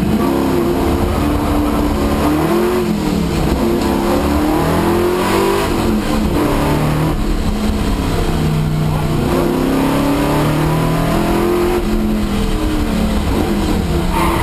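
Holden LX Torana's 355 stroker V8, heard from inside the cabin, revving hard as the car pulls away from a standing start and accelerates. The pitch climbs and drops again and again with the gear changes and the throttle.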